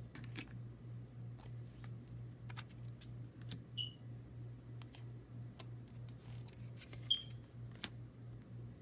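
Faint handling sounds of unboxing, with scattered light clicks and taps, two brief high squeaks and one sharper click near the end, over a steady low hum.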